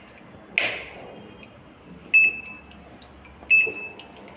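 A Realme top-load washing machine's control panel beeps twice: two short, high, steady beeps about a second and a half apart. A short knock comes before them, about half a second in.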